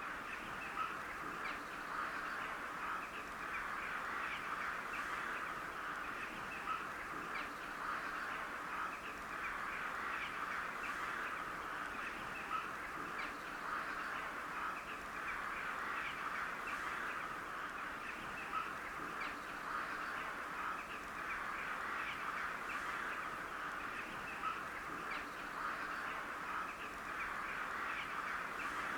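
A flock of crows calling continuously, many overlapping calls.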